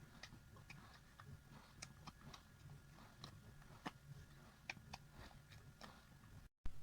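Elderly miniature dachshund eating: faint, irregular wet clicks and smacks of chewing, a few a second. The sound cuts out briefly near the end, then returns with a sharper click.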